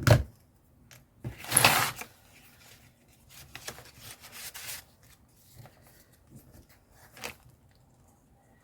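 Paper and card being handled at a craft desk: a sharp knock at the start, then a louder rustle or tear about a second and a half in. Softer rustling follows, and there is a short click near the end.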